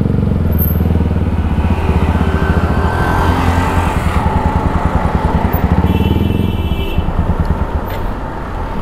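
Motorcycle engine idling with an even, pulsing beat; it eases off a little near the end.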